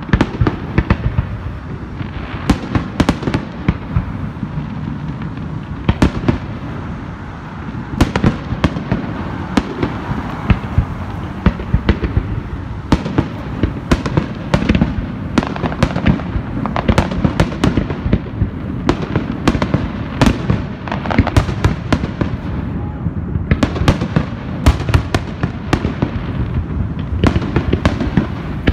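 Fireworks display: aerial shells bursting one after another, dozens of sharp bangs at irregular intervals over a continuous low rumble.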